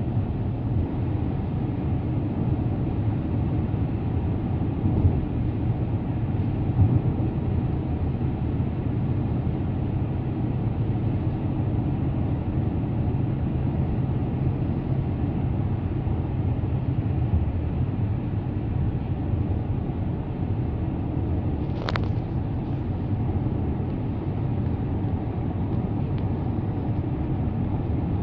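A moving car's steady rumble of tyre, road and engine noise, even throughout, with one short sharp click about three-quarters of the way through.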